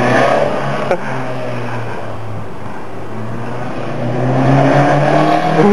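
Home-built mid-engine sportscar with a Toyota MR2 engine driving; the engine note holds steady, then rises in pitch and grows louder over the last couple of seconds as it accelerates.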